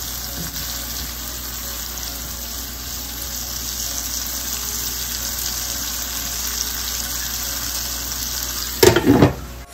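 Red snapper curry sizzling in a nonstick skillet while a wooden spatula stirs it, the sauce hissing steadily. Two loud clatters near the end.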